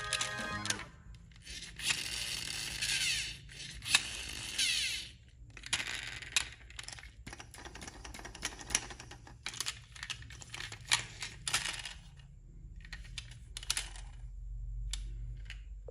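Scraping and rattling made up of many small clicks, as gravel or small stones are pushed and tipped by a radio-controlled construction model. A longer rasping stretch comes between about two and five seconds in.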